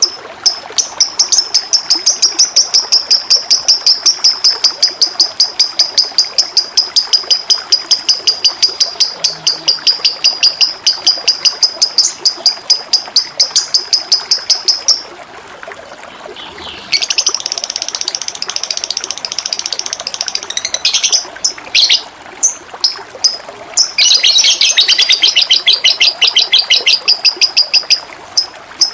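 A small songbird singing long runs of fast, evenly repeated high chirps, several a second. The runs break off for a couple of seconds twice. Steadily flowing, trickling water runs underneath.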